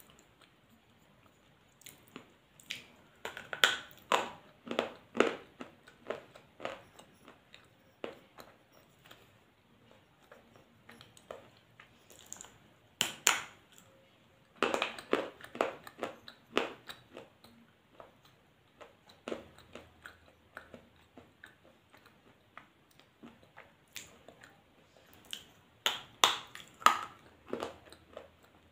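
A person chewing and crunching food, in bursts of quick, crisp crunches separated by quieter stretches.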